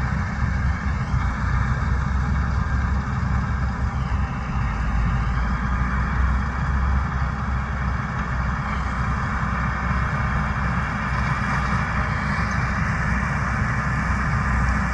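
Heavy harvest machinery running steadily under load: the even, unbroken rumble and rush of a large diesel-powered field machine at work.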